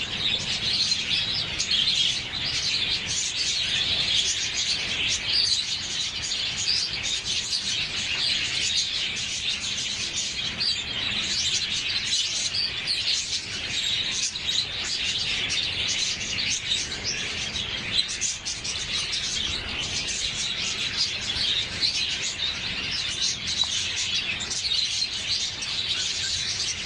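Pet bird chirping without pause in a dense run of short, high chirps.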